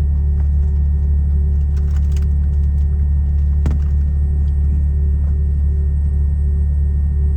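Steady low drone in the cabin of a Boeing 717-200, its two rear-mounted Rolls-Royce BR715 engines running at a constant, low setting, with a faint regular pulsing hum and one soft click about halfway through.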